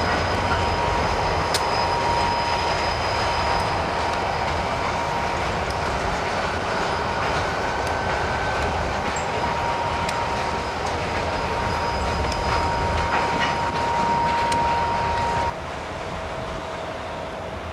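Freight train cars rolling past with wheels clacking on the rails and a thin, steady wheel squeal. The sound drops off abruptly near the end.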